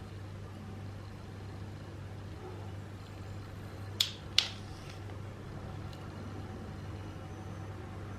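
Two sharp clicks, about half a second apart, over a steady low hum.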